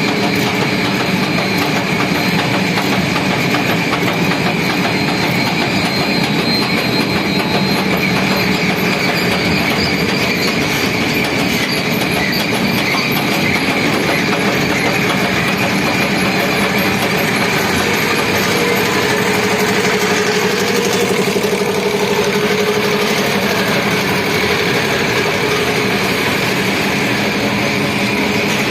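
Brick-making machinery running steadily: a continuous, loud mechanical din with a few steady whining tones over it.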